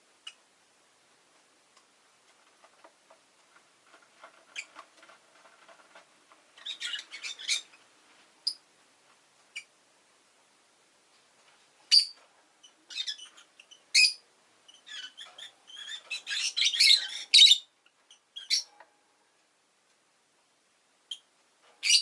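Rosy-faced lovebird chirping in scattered bunches of short, sharp, high calls, with softer chatter between them; the densest, loudest run comes about two-thirds of the way through.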